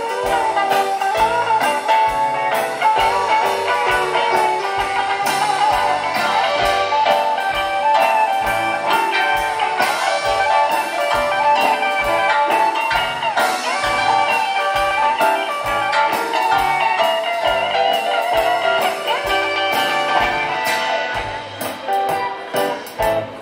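Live band playing an instrumental passage of a song, with guitar lines over a steady beat. It gets a little quieter near the end.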